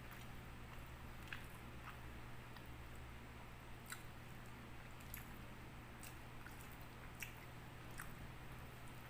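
Faint wet clicks and squishes of eating rice and fish by hand: chewing, and fingers pressing sticky rice on a plate, about one small click a second over a steady low hum.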